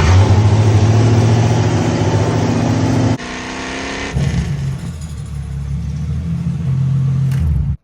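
Tractor engine running hard, its speed falling off about three seconds in, then running on at a steadier, lower note; the sound cuts off abruptly near the end.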